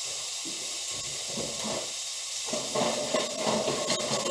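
Diced onions sizzling in a non-stick frying pan on a gas hob at medium heat, a steady hiss, with a few light knocks in the second half.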